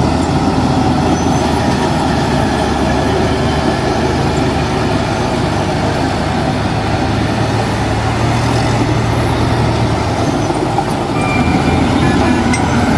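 Heavy diesel earthmoving machinery running steadily, a continuous engine drone. A deeper engine note comes up for a few seconds about seven seconds in.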